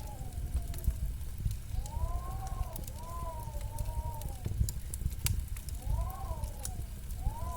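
Fireplace crackling, with a steady low rumble of burning logs and scattered sharp pops. Over it, a soft pair of tones rises and falls in short arcs several times.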